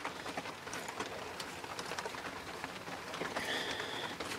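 Rain pattering on a tent overhead: a steady hiss full of small irregular drop ticks. A brief high-pitched tone sounds near the end.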